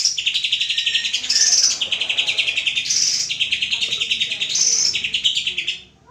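Green leafbird (cucak ijo) singing a lure song: a continuous run of fast, trilled phrases, each followed by higher, clearer notes. The song breaks off just before the end.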